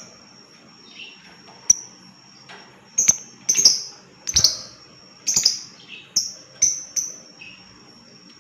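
Lovebird giving a series of short, shrill, high-pitched chirps, about a dozen in irregular succession, most crowded together between about three and seven seconds in.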